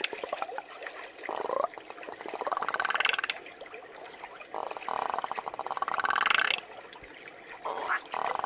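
A person imitating a frog with their voice: a series of croaks. Each is a fast rattling trill that rises in pitch, and the longest lasts about two seconds.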